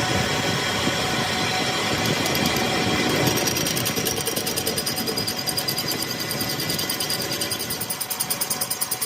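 A power tool or machine running steadily, with a fast, even pulsing that grows stronger over the last few seconds.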